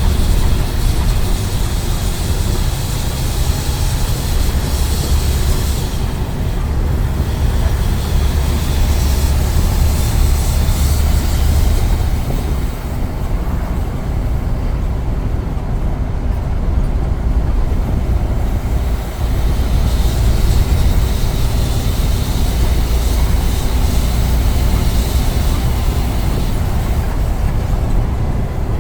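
Scania N94UD double-decker bus under way, heard from on board: its diesel engine runs with a steady low rumble and road noise. A high hiss sits above it and drops away for several seconds midway.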